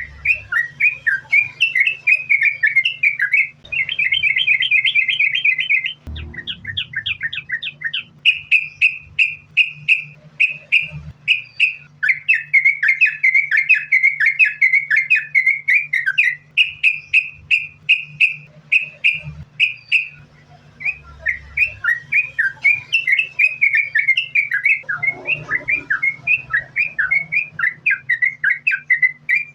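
Yellow-vented bulbul (trucukan) singing a long, unbroken song of quick bubbly notes, several a second. Faster rattling runs come at about 4 seconds, 6 seconds and 12 seconds in. A faint steady low hum runs beneath.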